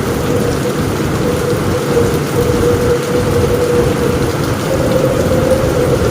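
Steady heavy rain on a roof, with a low rumble of thunder underneath and a steady hum running through it.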